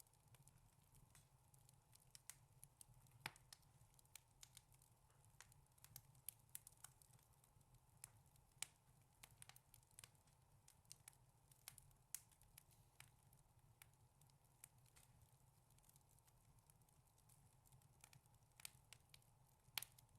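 Wood fire crackling in a fireplace: faint, irregular sharp pops and snaps, a few louder ones about three seconds in and near the end, over a faint steady low hum.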